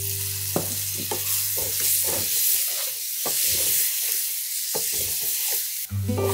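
Tomato pieces sizzling in hot spiced oil in a steel pan, while a metal ladle stirs them, scraping and knocking against the pan many times. The sizzling cuts off suddenly near the end.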